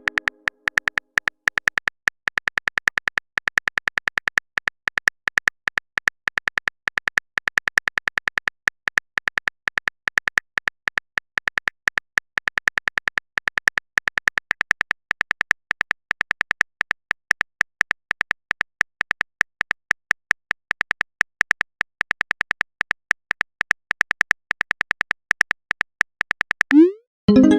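Rapid keyboard-typing sound effect: an even stream of light clicks, about six a second. Near the end a short rising pitched tone cuts in.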